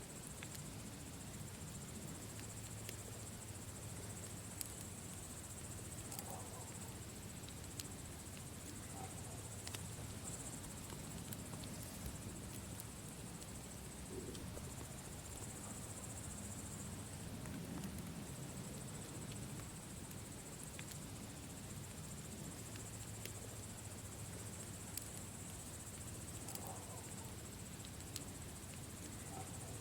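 Campfire crackling with scattered sharp pops, over a steady background of night insects chirping in a high band and a low rumble.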